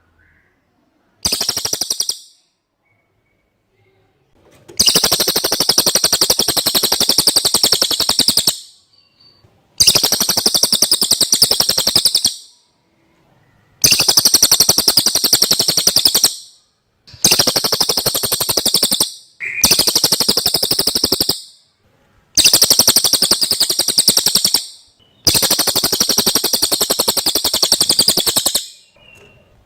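Cililin song: a loud, rapid, high-pitched trill repeated in eight phrases of one to four seconds each, with short pauses between them.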